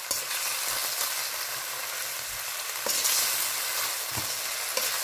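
Raw prawns in a chilli-garlic-soy paste sizzling in a hot wok, with a few clicks of the utensil stirring them against the pan.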